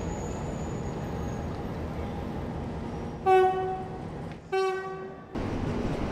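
Train rumbling along the rails, with two horn blasts about three and a half and four and a half seconds in: the first short and the loudest, the second a little longer. The running noise gets louder just after the second blast.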